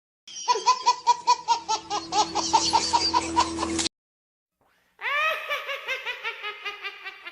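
Two short laughing sound effects, one after the other: a quick, pulsing laugh lasting about three and a half seconds, then after a second of silence a second laugh that fades away.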